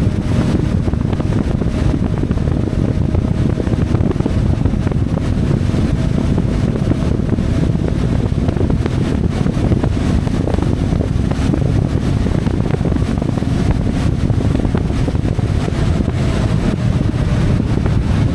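CFMOTO 450MT's parallel-twin engine running at a steady pace while riding, with wind rushing over the microphone.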